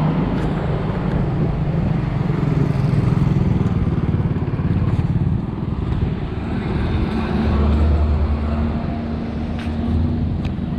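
A motor vehicle engine running steadily, its pitch dropping lower about halfway through.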